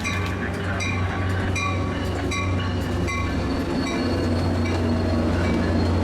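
Diesel passenger train at the station: a steady low engine hum with the locomotive's bell ringing at an even pace, about one stroke every 0.7 s, fading out partway through while the engine hum grows a little louder.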